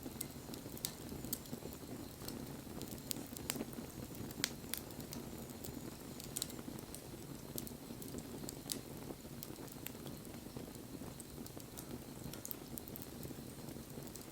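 Wood bonfire burning: a steady low rush of flame with irregular sharp crackles and pops.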